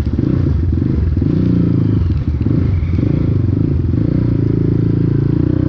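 Cross X 250 SE dirt bike engine running while riding, its pitch wavering a little with the throttle, with a brief dip about two seconds in.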